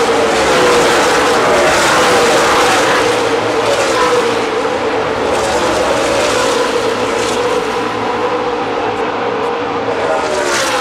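NASCAR stock cars' V8 engines running at speed past the listener, one car after another, each engine's pitch falling as it goes by. Another car sweeps past near the end.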